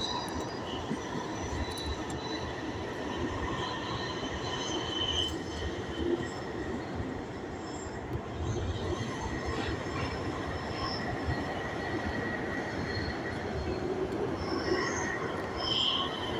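Jubilee line Underground train running between stations, heard from inside the carriage: a steady rumble with thin high wheel squeals coming and going.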